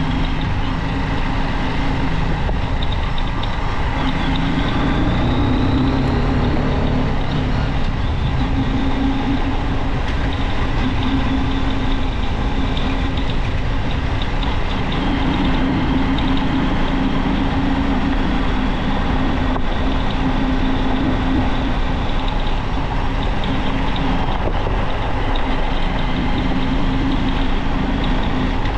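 Junak M12 motorcycle engine running steadily while riding, its pitch shifting briefly about five seconds in.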